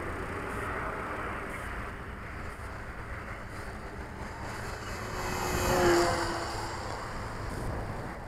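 Electric motor and propeller of a ParkZone FW 190 foam RC warbird in flight, a steady hum that swells as the plane makes a close pass about six seconds in, then fades.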